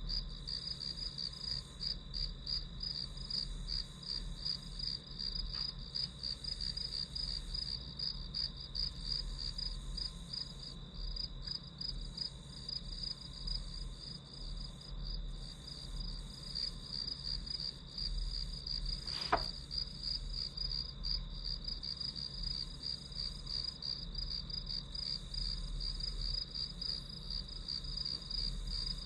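Crickets chirping in a fast, steady, pulsing trill. A single sharp click sounds about two-thirds of the way through.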